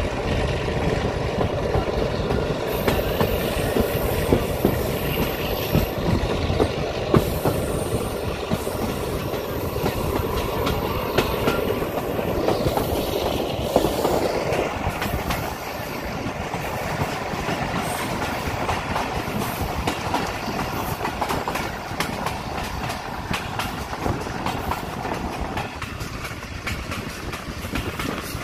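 Pakistan Railways passenger train coaches running along the track, heard from on board: steady running noise with the wheels clattering over the rails.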